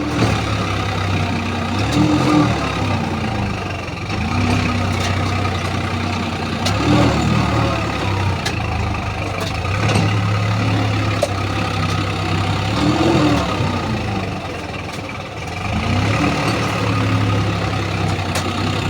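Heavy diesel engine running, its pitch rising and falling four times, a few seconds apart, as it is revved and let back down.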